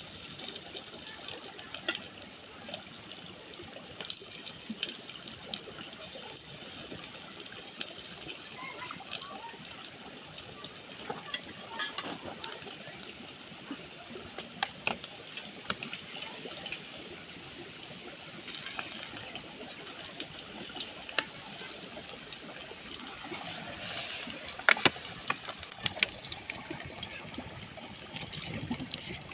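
Water running steadily, with scattered small clicks and knocks, some louder near the end.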